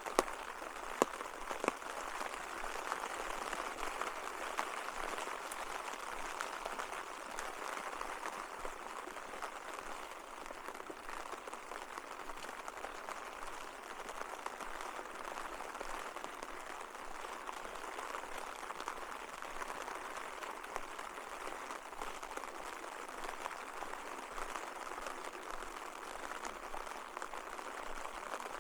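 Steady rain falling, with a few sharp drop taps in the first couple of seconds.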